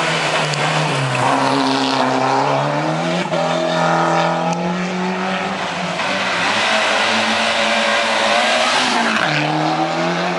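Ford Escort rally car's engine pulling hard uphill, revving up through the gears, its pitch climbing and then dropping at each upshift: about a second in, after about three seconds and again near the end.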